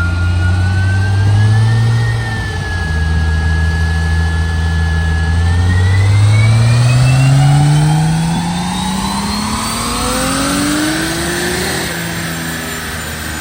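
Car being run on a rolling chassis dyno: the engine holds a steady speed for a few seconds, then pulls hard, its pitch rising smoothly for about six seconds before it backs off near the end. A high whine climbs along with the engine.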